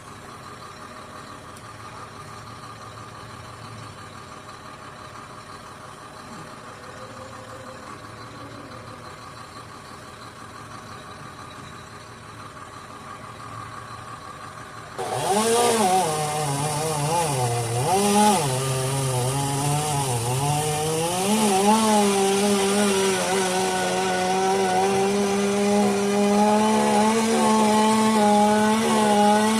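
Tree-cutting machinery: a steady low engine hum, then about halfway through a loud chainsaw comes in suddenly. Its pitch dips and recovers several times as it works through the wood, then it holds a steady high pitch.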